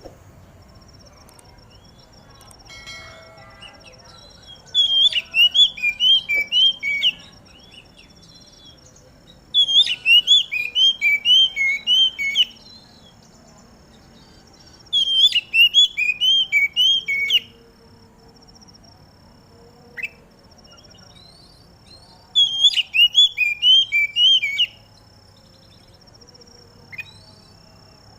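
Oriental magpie-robin (kacer) singing in four bursts of rapid, repeated high chattering notes, each two to three seconds long, with pauses of a few seconds between them. A faint, steady, high-pitched whine runs under it from about three seconds in.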